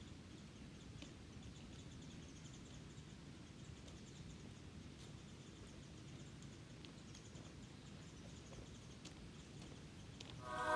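Faint outdoor ambience with a low rumble and a run of faint high chirps in the first half, plus a few light clicks. Music comes in near the end.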